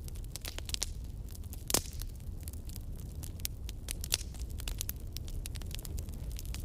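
Campfire burning: wood crackling with frequent sharp pops, one louder pop about two seconds in, over a low steady rumble.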